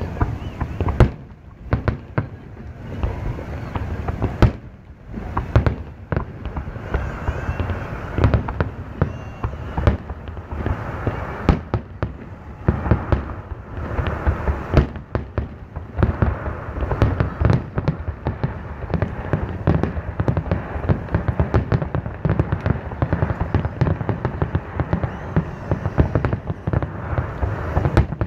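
Fireworks display: aerial shells bursting in a dense run of sharp bangs and crackle, several a second, over a steady low rumble of the explosions.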